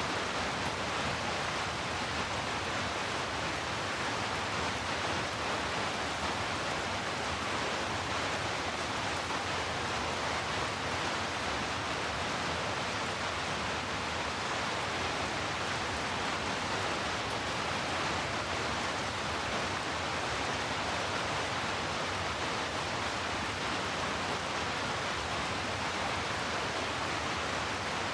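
Heavy rain blended with brown noise: a steady, even hiss that does not change.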